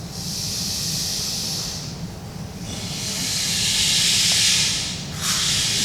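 Two rain sticks, a smaller and a larger one, tipped over in turn: a steady hiss of pellets falling through the tubes, in three pours. The first is higher and thinner, the later ones louder and fuller, and the last starts about five seconds in.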